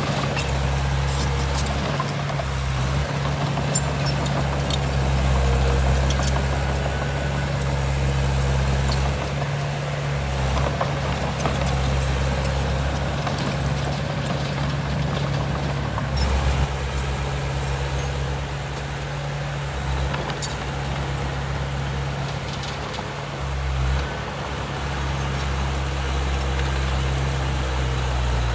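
Heavy diesel earthmoving machinery running steadily with a deep, even engine hum that swells and eases a little at times, with scattered light clicks and clanks.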